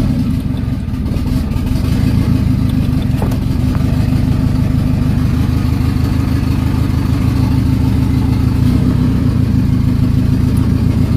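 Honda Civic engine running steadily just after catching on a cold start at around 5 to 10 below zero, after sitting unstarted for about a month and running on a cold-start tune.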